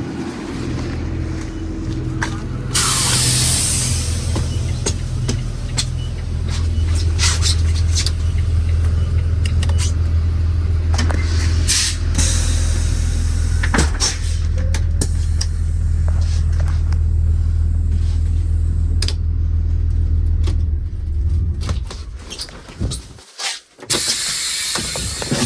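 School bus diesel engine idling, its note rising and growing stronger a few seconds in, then cutting out near the end. A burst of air hiss comes about three seconds in, with scattered clicks throughout.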